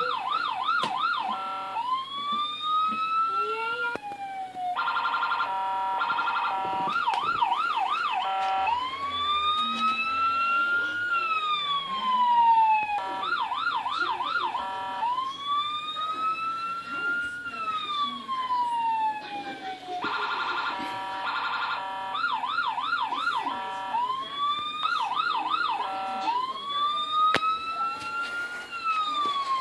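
Small electronic police siren fitted to a ride-on toy car, cycling through its tones: a fast warbling yelp, a slow wail that rises and then falls, and a rapid pulsing phaser-like tone. The sequence repeats about every seven seconds.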